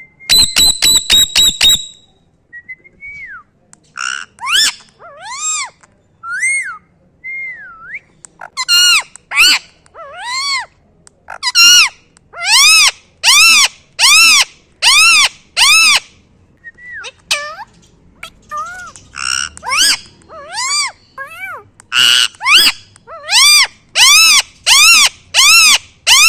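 A parrot calling over and over in short, loud squawks that rise and fall in pitch, coming about one or two a second. A quick run of sharp, evenly spaced calls opens it.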